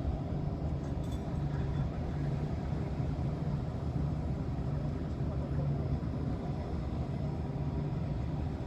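A vehicle's engine running steadily with a low hum.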